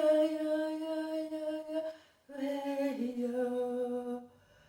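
A woman's voice humming unaccompanied: one long held note, a brief breath, then a second held note that steps down in pitch partway and fades out near the end.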